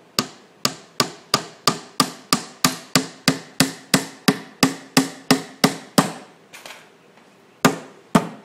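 A hammer driving a nail into wood with steady blows, about three a second. Near the end the blows stop for over a second, then two more follow.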